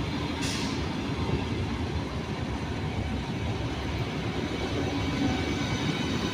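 Train moving through the station: a steady low rumble of the train running on the track, with a short hiss about half a second in.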